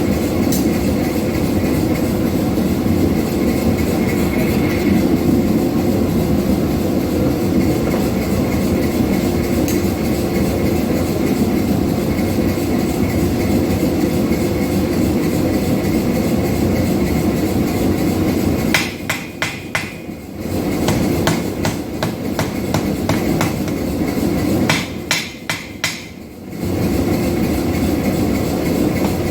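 Power hammer pounding hot 5160 steel in a fast, continuous run of blows. It stops twice in the second half, each time with a quick string of separate strikes as it slows, then starts up again.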